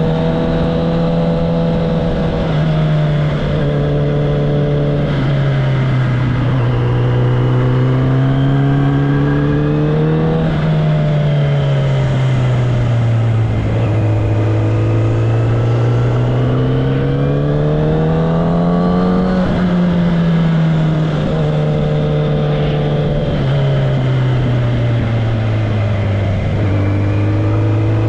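Kawasaki ZX-10R's inline-four engine and exhaust running under way, the pitch rising and falling with the throttle. It drops sharply at gear changes several times, about two and a half seconds in, near the middle and again near the end.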